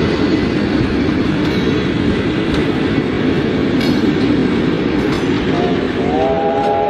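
Steam locomotive running with a loud, steady rumble and rattle. About six seconds in, its whistle starts: a steady chord of several pitches held on.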